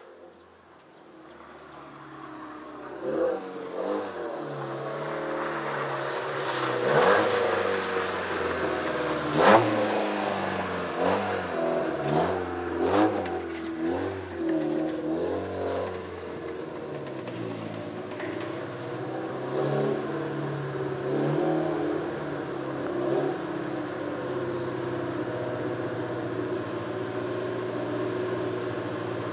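Honda banger-racing car's engine running and being blipped repeatedly, the pitch rising and falling, then settling into a steadier run with a few light blips. Two sharp knocks stand out about seven and nine and a half seconds in.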